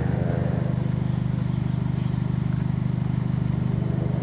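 Fiat Egea rally car's engine running steadily at low, constant revs, with an even, rapid pulse.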